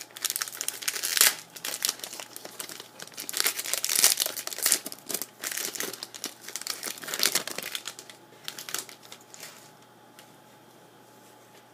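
A hockey trading-card pack wrapper crinkling as it is torn open and the cards are pulled out, in quick irregular bursts. The rustling dies away about nine seconds in.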